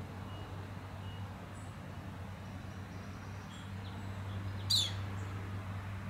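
Scattered short, high bird chirps over a steady low hum, with one sharp, louder call sweeping quickly downward in pitch a little after the middle.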